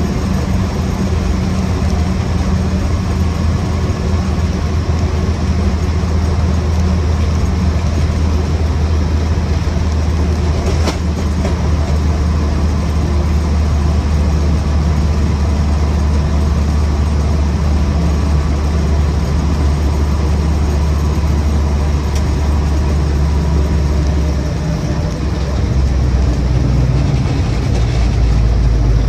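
Land Rover Series 1's 2-litre four-cylinder petrol engine and drivetrain with a steady low drone while driving along; the note changes about 25 seconds in.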